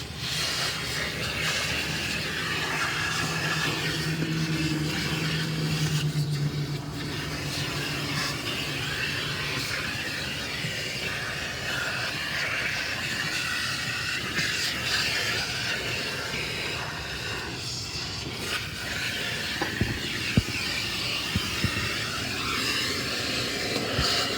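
Car wash equipment running with a steady rushing hiss. A low hum sits under it for the first few seconds, and a few sharp clicks come near the end.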